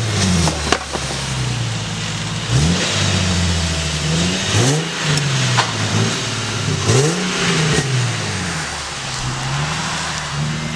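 Car engine revved repeatedly through a freshly modified aftermarket exhaust, the pitch climbing quickly and falling back about four times, with a sharp crack about a second in.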